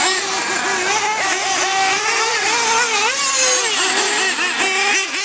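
Several radio-controlled monster trucks and truggies racing, their small engines revving up and down rapidly and overlapping in a high, buzzing whine.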